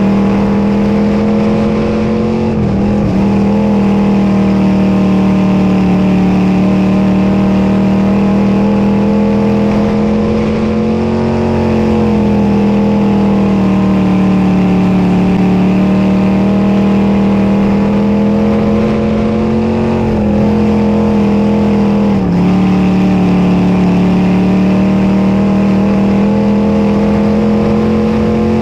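Dirt modified race car engine running hard at high revs without a break, its pitch dipping briefly and climbing back a few times as the throttle is lifted and reapplied.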